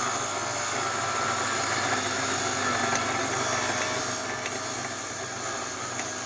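Lapidary grinding wheel running steadily with an even hiss while rough opal is ground on it to look for colour under the skin.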